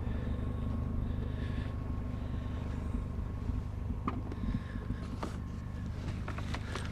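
Steady low hum of an idling vehicle engine, with a few light clicks and knocks of items being handled in the second half.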